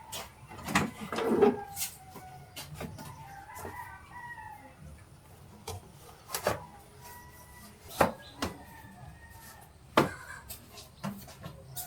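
A rooster crowing, with several sharp knocks or clicks, the loudest sounds, spaced a second or two apart.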